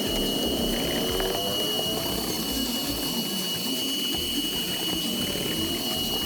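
Vacuum cleaner running with a steady high-pitched whine.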